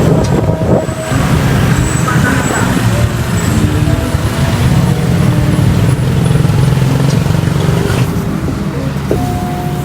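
Road traffic: motor vehicle engines running, with a steady low rumble.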